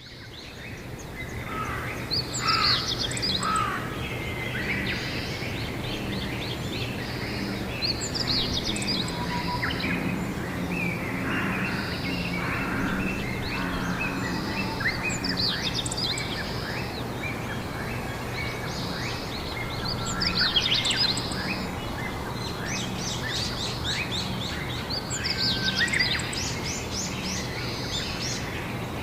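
Several songbirds singing and chirping in short repeated phrases, over a steady low hum of background noise. The sound fades in over the first second.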